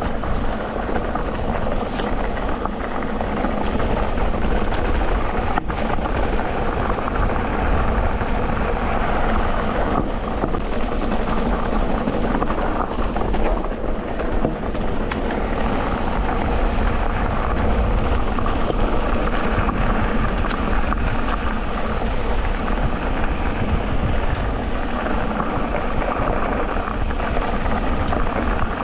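Electric mountain bike riding along a dirt trail: a steady rumble of tyres rolling over the ground and the bike moving under the rider.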